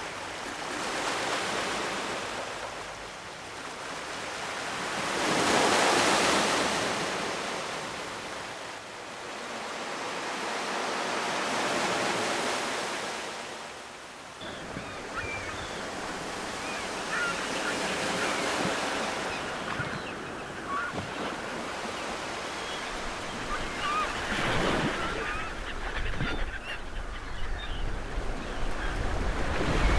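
Ocean surf washing ashore in slow swells, three big surges in the first half. In the second half the surf becomes a steadier wash, with birds calling over it.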